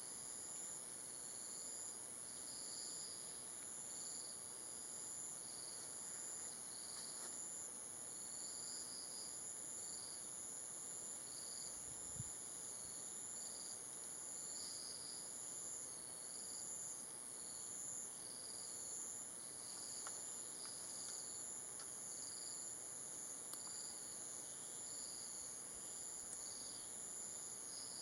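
Insect chorus: a steady high-pitched drone, with a second insect sounding repeated short chirps about once a second beneath it. There is one faint thump about halfway through.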